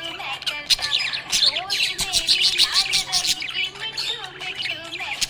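A group of small pet parrots chattering, with many rapid overlapping chirps, warbles and short squawks.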